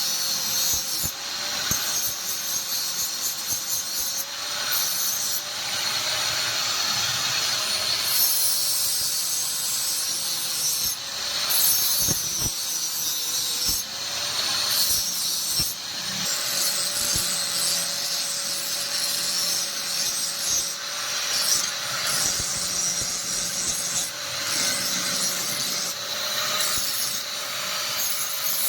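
A power tool grinding steel: a steady motor whine that wavers slightly under load, with a loud grinding hiss that breaks off briefly several times.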